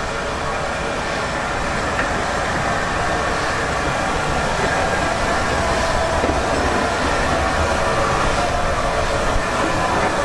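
Steam-hauled passenger train running along the track: a steady, continuous rolling noise that slowly grows louder.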